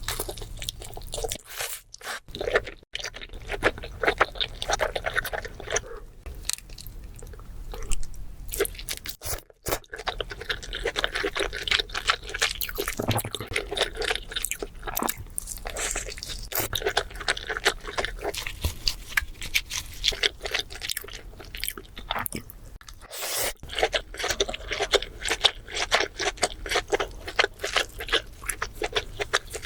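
Close-miked eating sounds: wet chewing and crunching of seafood boil, with many sharp irregular crackles, breaking off briefly a few times.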